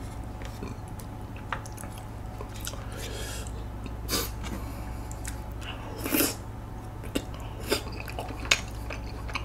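Close-up eating sounds from a person chewing tteokbokki rice cakes: short wet mouth clicks and smacks, a louder one about six seconds in, over a low steady hum.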